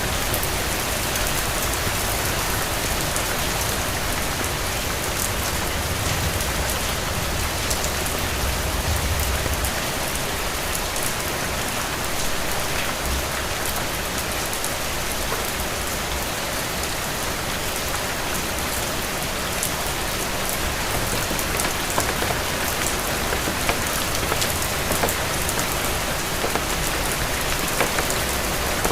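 Steady rain falling on a hard surface: an even hiss with scattered sharp drop ticks.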